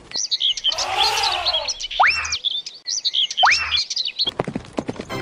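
Birds chirping and twittering in two similar runs of quick high chirps, each ending with a single sharp rising whistle.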